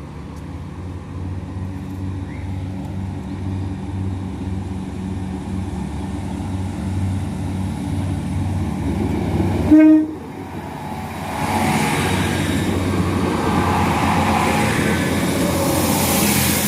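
Northern Ireland Railways 3000 Class diesel multiple unit pulling away, its engine rumble growing steadily louder. About ten seconds in it gives one short horn toot, the loudest moment, then it passes with rising wheel and rail noise.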